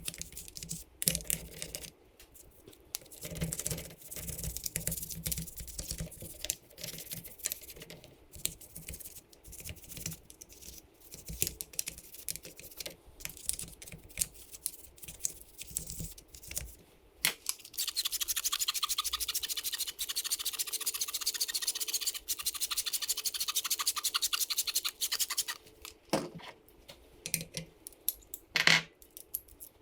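Scrubbing and scraping on the dirty casing of a Honda CRF150R engine, in uneven strokes with small knocks. In the second half the rubbing turns fast and continuous for about eight seconds before the uneven strokes return.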